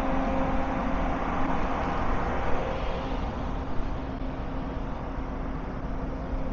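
Steady city road traffic: a continuous wash of engine and tyre noise with a low, steady hum running through it.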